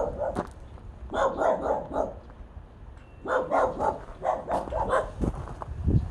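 A dog barking in quick runs of several barks, three runs in all, the last about three seconds in.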